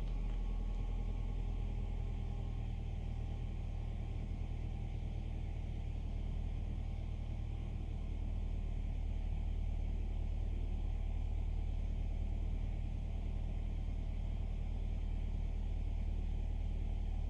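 2015 Nissan Altima 2.5's four-cylinder engine idling steadily, without misfire, now that the faulty valve timing solenoid with a stuck plunger has been replaced.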